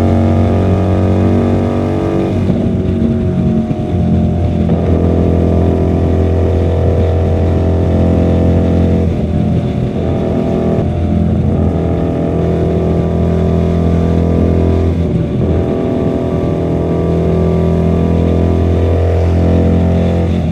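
QJMotor SRV250's V-twin engine through a custom two-into-one exhaust, running steadily under way. Its note drops and climbs again three times, about 2.5, 9.5 and 15 seconds in, as on gear changes or easing off the throttle.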